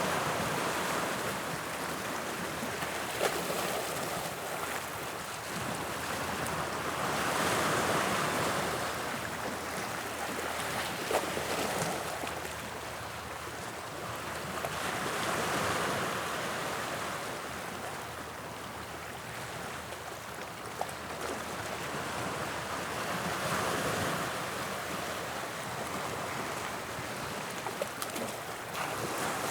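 Waves of the English Channel breaking and washing on the shore, the surf swelling and falling back about every eight seconds, with a few faint sharp clicks.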